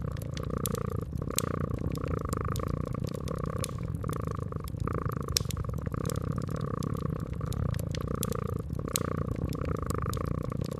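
Domestic cat purring steadily, the purr swelling and easing with each breath, over a wood fire with frequent sharp, irregular crackles and pops.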